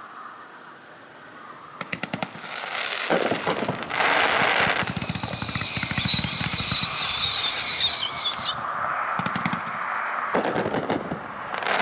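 Consumer fireworks cake firing: rapid volleys of shots and dense crackling, loudest for about four seconds in the middle, with a high warbling whistle over part of it, then two more bursts near the end.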